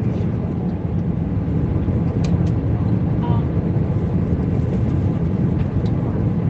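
Airbus A320 passenger cabin in flight: a steady low roar of engines and airflow, with a couple of faint clicks about two seconds in.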